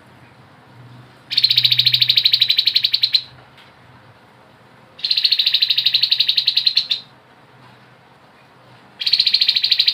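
Grey-headed babbler (tepus kepala abu) singing its rapid, rattling 'ngebren' trill in three bursts of about two seconds each, with short pauses between.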